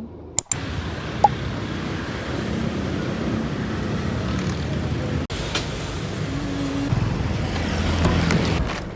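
Car and traffic road noise, a steady rush that breaks off abruptly twice, with a short high beep about a second in.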